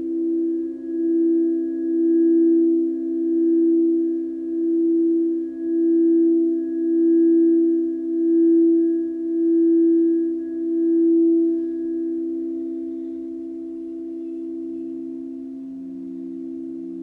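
Sustained, pure-sounding singing bowl tones, two notes together whose loudness swells and fades about once a second. The pulsing evens out about twelve seconds in, and a lower note joins near the end.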